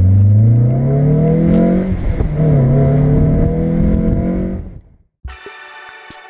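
Car engine accelerating hard, heard from inside a convertible with the top down. The engine note climbs, drops at an upshift about two seconds in, then climbs again before fading out. Music begins near the end.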